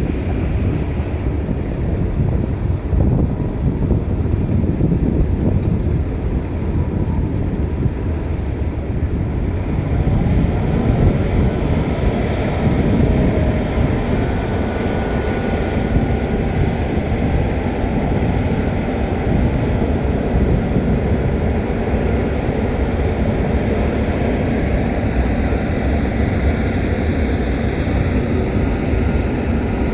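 Freight train rolling past: a steady, loud rumble of wheels and cars on the rails that carries on without a break.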